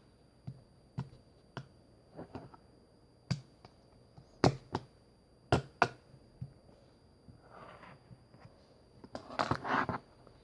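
Slime being pressed and poked by hand, giving a string of sharp popping clicks as air pockets burst, then crackly squishing near the end.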